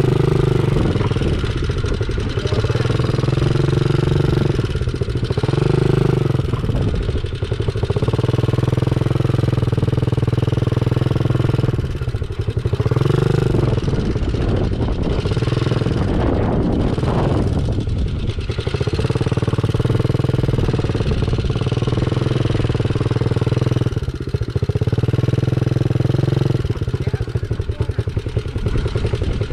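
Small dirt bike engine running steadily, its pitch rising and falling again and again as the throttle is opened and eased off.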